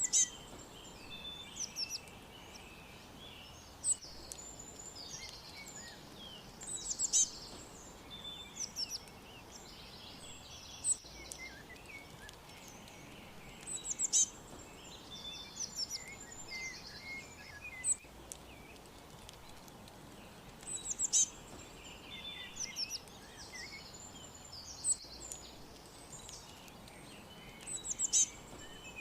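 Small songbirds chirping and trilling in high, quick notes over a steady background hiss. A loud cluster of calls comes back about every seven seconds.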